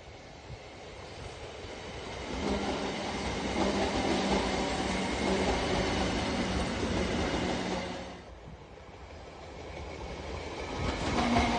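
Two electric multiple-unit passenger trains pass close by, one after the other. The first rises into a loud run-past with a steady low hum and rumble, then falls away about eight seconds in. The second draws near and is passing by the end.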